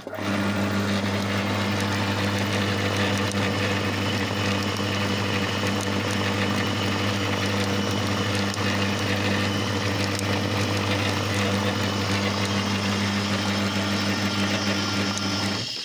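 Vintage 1960 Bellanger V-twin air compressor, driven by a single-phase electric motor, switched on at the plug and running steadily with an even hum. It is unplugged near the end and begins to run down.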